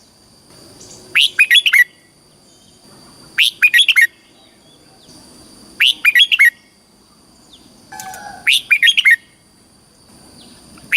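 Red-whiskered bulbul singing a short phrase of about five quick notes, repeated four times roughly every two and a half seconds, over a faint steady high whine.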